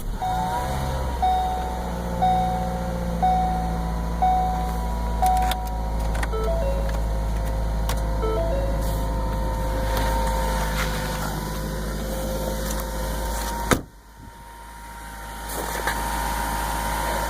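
A 2014 Ford Focus's four-cylinder engine starting cold at about −12 °F after sitting four or five days, then idling steadily. A dashboard chime rings about once a second for the first five or six seconds. A sharp knock comes near the end, after which the engine is briefly much quieter, then louder again.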